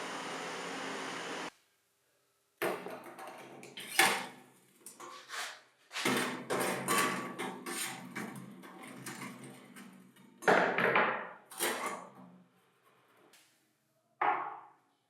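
A steady hiss cuts off suddenly about a second and a half in. After a short pause come irregular metal clatters and knocks with brief ringing, like small metal parts being handled and set down.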